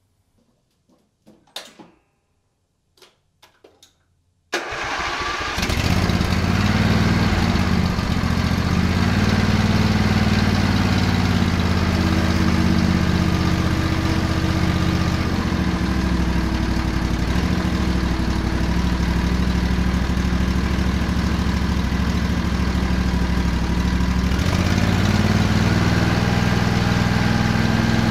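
Sears Craftsman riding mower's 21 HP Briggs & Stratton Intek twin engine starting suddenly about four and a half seconds in, after a few faint clicks, then running steadily. This is the first start after a bent exhaust push rod was replaced and the valves were adjusted, a test of whether both cylinders fire.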